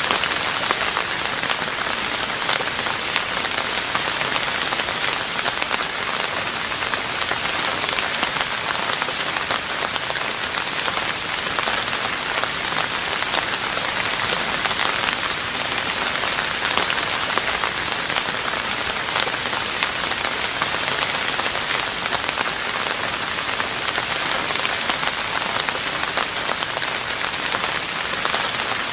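Steady, heavy rain falling on a roof: an even hiss of dense drops with no letup.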